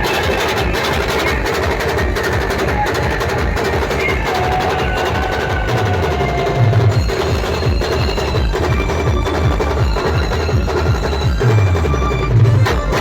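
Band music at full volume: fast, dense drumming under a melody line, with heavy bass notes that swell twice, about halfway through and near the end.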